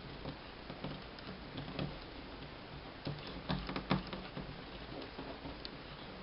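A sheet of folded paper being turned over and creased by hand: soft crinkles and small taps, with a busier cluster of paper sounds a little past the middle.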